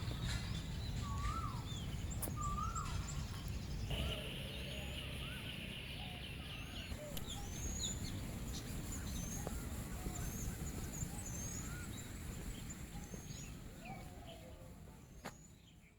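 Several birds chirping, in many short rising and falling notes, over a steady low outdoor rumble; one bird trills steadily for about three seconds near the middle. Everything fades out over the last few seconds.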